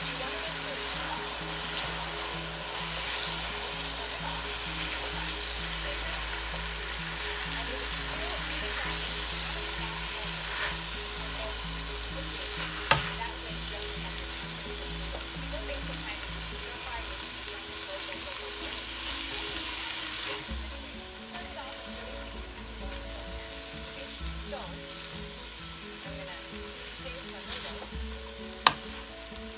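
Rice noodles and Phad Thai sauce sizzling in a hot wok as they are stir-fried with tongs, the sizzle easing a little after about 20 seconds. Two sharp clicks of the tongs knocking the wok, about 13 seconds in and near the end, are the loudest sounds.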